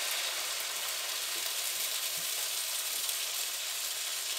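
Chopped onions, butter and flour frying in a skillet: a steady sizzle.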